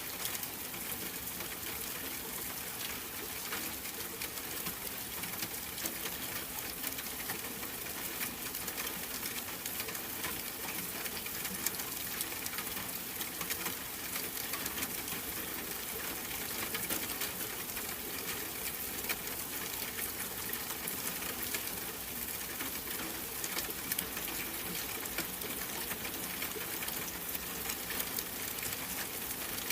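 Steady rain: an even hiss with many small drop ticks, unchanging throughout.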